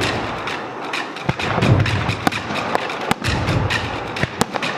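Aerial firework shells bursting overhead: a rapid string of sharp bangs and crackles with deeper booms in between.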